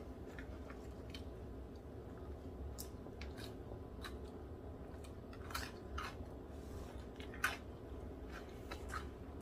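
Faint chewing, heard as scattered soft clicks over a low steady hum.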